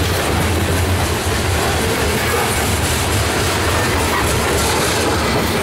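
Covered hopper cars of a freight grain train rolling past close by: a steady rumble of steel wheels on rail, with clickety-clack as the wheels cross rail joints.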